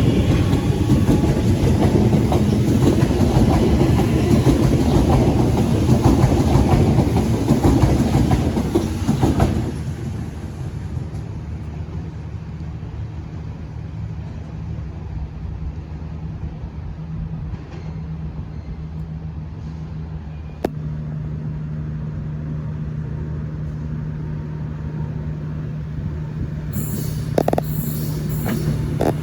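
Sydney Trains electric suburban train running past on the tracks, loud for the first nine seconds or so, then dropping suddenly to a steady low hum. Near the end the noise rises again as another train comes in.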